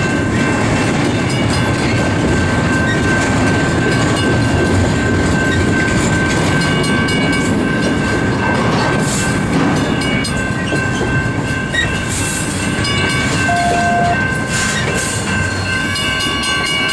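Freight train rolling past: steady rumble and clatter of wheels over the rails, with a steady high whine running throughout.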